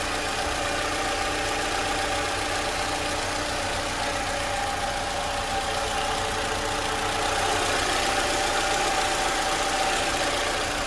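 Toyota 2AR-FE 2.5-litre four-cylinder engine of a 2012 Camry idling steadily after repair: the normal sound of this engine.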